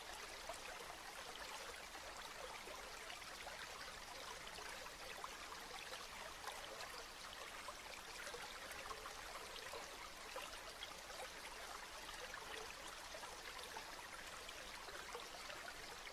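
Steady rain falling, a dense patter of small drops with no let-up.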